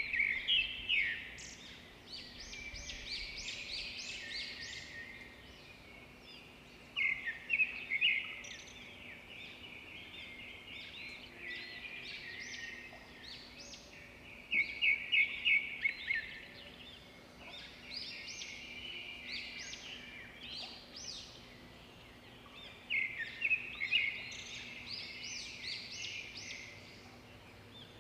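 A songbird singing a loud phrase of rapid chirped notes about every seven or eight seconds, with softer chirping between, over a faint steady sound of gurgling water.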